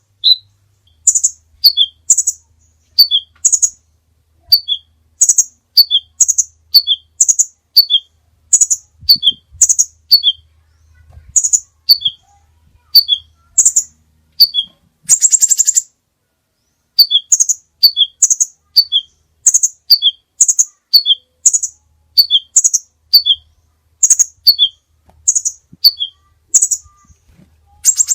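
A songbird singing a fast, regular series of short high chirps, each phrase a high note dropping to two lower notes, repeated a little more than once a second. About halfway through comes one harsh buzzy note, then a brief pause.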